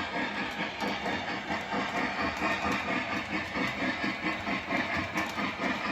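Lionel LionChief Plus 2.0 Southern Berkshire model steam locomotive running, its onboard sound system playing a quick, even steam chuff of about five beats a second, with faint scattered clicks.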